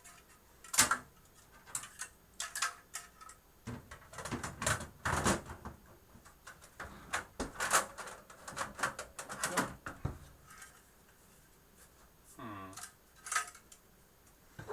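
Irregular clicks, taps and rattles of hardware being handled and tried in place inside a rack-mount server case, in a quick uneven run of small impacts with a sharper knock just under a second in.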